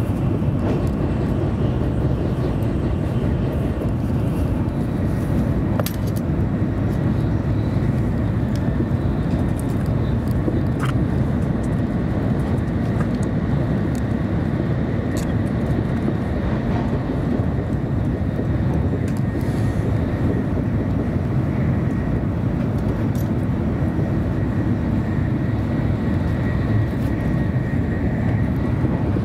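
Steady low rumble inside the passenger cabin of a 700 series Shinkansen running at high speed, with a faint steady high tone and a few faint clicks above it.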